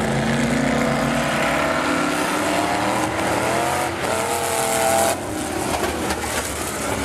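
Race car engines running on a speedway track. One engine winds up in pitch over a couple of seconds, then the sound drops off suddenly about five seconds in.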